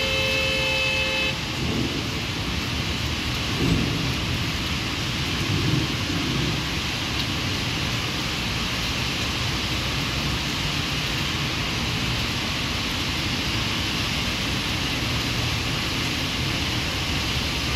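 Heavy rain falling steadily, with tyres hissing on the wet highway. A car horn sounds and cuts off about a second in, and low rumbles come around four and six seconds in.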